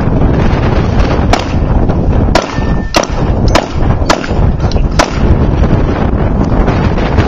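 About six gunshots fired in quick succession, roughly half a second apart, over heavy wind buffeting on the microphone.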